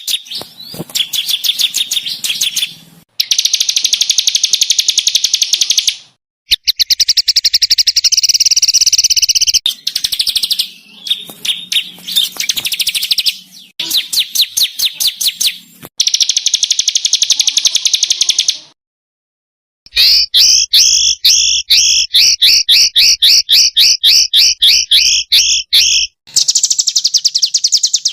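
Small songbirds singing on an edited bird-training (masteran) recording. Rapid, harsh high-pitched trills and chattering 'shots' come in separate bouts. The bouts start and stop abruptly, with a silent gap of about a second roughly two thirds of the way in.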